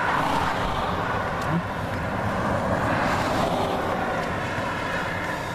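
Vehicle road noise: a steady rush of tyres and air that swells twice.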